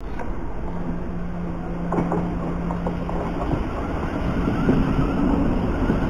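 Thameslink Class 700 electric train moving slowly along the platform: a steady rumble of wheels on rail with a motor hum that steps up in pitch about halfway through, growing slightly louder.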